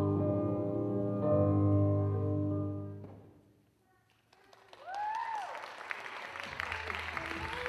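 The recorded song's last held chords ring and fade out about three seconds in. After a moment of near silence, an audience starts clapping, with one rising-and-falling cheer.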